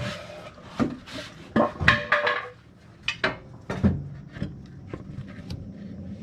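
Metal tools and parts clanking and knocking by hand: a string of separate knocks, with a short metallic ring about two seconds in.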